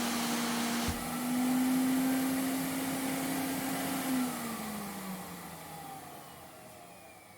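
Vacuum cleaner motor running with a steady hum and airy hiss, then switched off about four seconds in, its pitch falling and the sound fading as the motor winds down. A short knock sounds about a second in.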